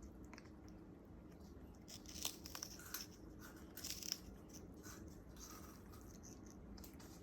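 African grey parrot tearing and crunching fibrous sugarcane with its beak: faint, with a few short crackling bites, the loudest about two and four seconds in.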